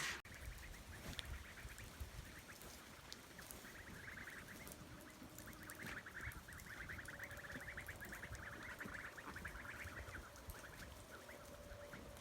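Ducks quacking faintly in a long run of rapid calls through the middle stretch.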